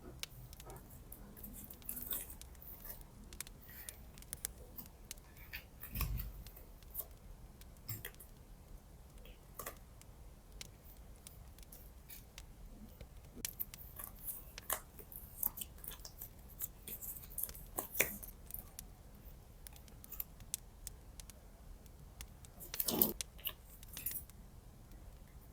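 Scissors snipping and paper rustling in scattered short, crisp strokes, as washi tape and stickers are cut and handled. One dull low thump comes about six seconds in.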